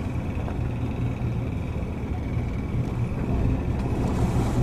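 Steady engine rumble with a faint, constant high whine.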